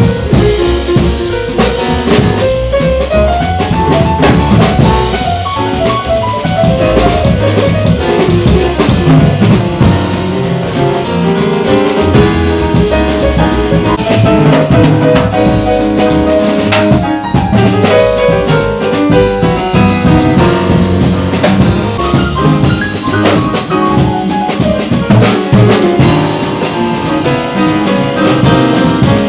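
Jazz piano trio playing: piano lines over walking double bass and a drum kit with busy cymbal and snare work.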